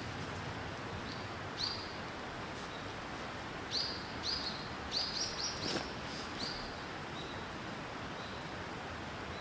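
A small bird giving short, high call notes over a steady outdoor hiss. The notes come singly at first, then in a quick run of about seven between four and six seconds in, then fainter and spaced out. A single sharp click comes near the end of that run.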